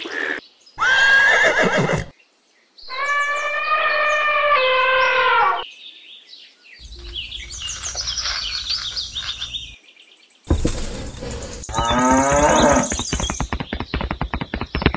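Several farm-animal calls one after another with short gaps between them, among them a horse whinnying with a falling call, then a quick run of hoof clip-clops near the end.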